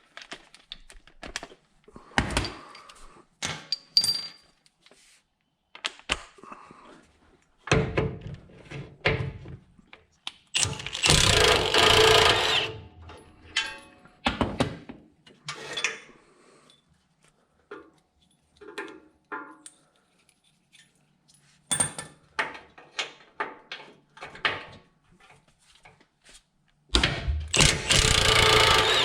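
Wrenches and tools clinking and knocking on steel while bolts are worked off a HMMWV motor mount, with two loud rattling bursts of two to three seconds each, about ten seconds in and near the end.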